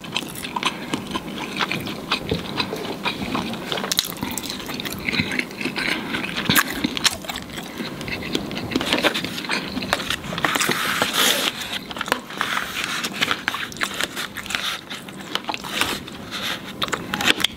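Close-miked eating: a man chewing and biting chicken, with many wet mouth clicks and smacks.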